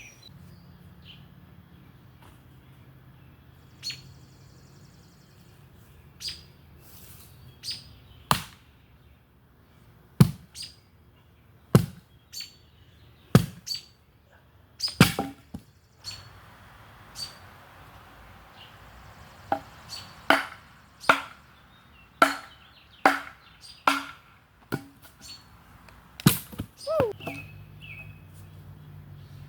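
A run of about twenty sharp, irregular chopping knocks, as wood is chopped for a campfire, coming faster in the second half. A bird chirps briefly near the end.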